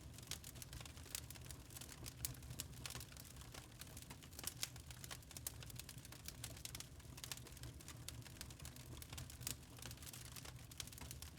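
Wood fire burning in a fireplace: irregular sharp crackles and pops over a soft steady low rumble.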